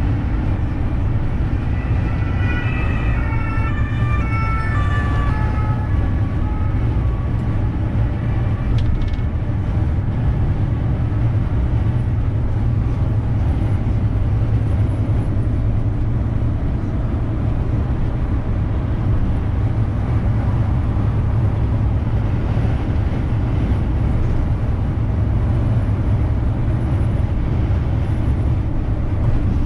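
Steady low rumble of a Renault truck's engine and road noise while driving. About two seconds in, a two-tone emergency siren alternates between two pitches for a few seconds and fades away.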